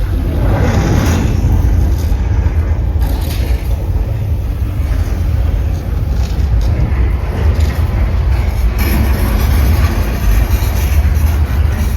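Staged earthquake effects in a mock subway set: a loud, continuous deep rumble with scraping, crashing noise over it, swelling now and then.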